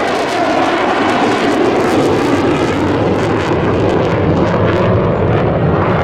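Military jet aircraft flying, its engine noise loud and steady, with the low rumble growing stronger in the second half.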